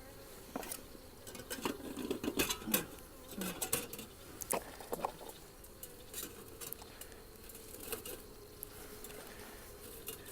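Scattered clicks and knocks of hands handling beekeeping gear, over a faint steady hum of honeybees at the open hive.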